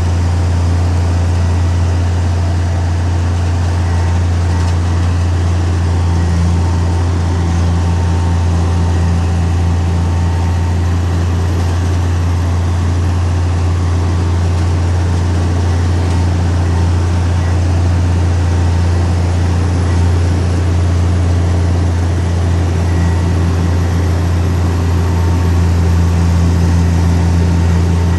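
Heavy diesel engine of earthmoving equipment running steadily, a constant low drone with no change in pace.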